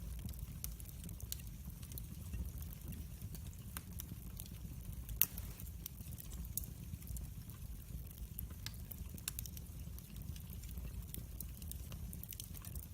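Wood fire crackling in a fireplace: a steady low rumble of the flames with irregular sharp pops and snaps, one louder pop about five seconds in.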